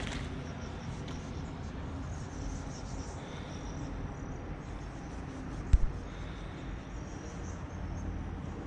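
Outdoor ambience of faint high insect chirping over a steady low rumble, broken by one sharp knock about two-thirds of the way through.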